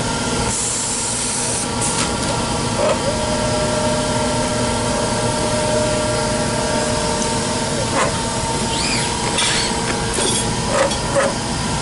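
Steady machine hum from a needle grinder's robotic loading cell running with the grind cycle off. A single held whine from about 3 to 7 s, then a few light clicks and knocks near the end as the unloader opens the collets and drops the tubing parts into trays.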